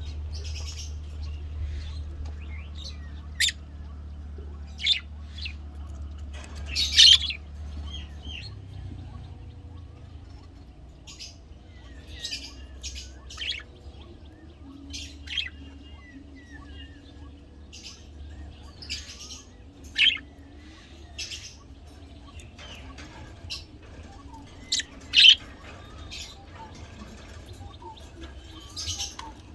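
Pet budgerigars chirping in short, irregular calls, with a few sharper, louder calls standing out. A low steady hum sits underneath for the first eight seconds or so.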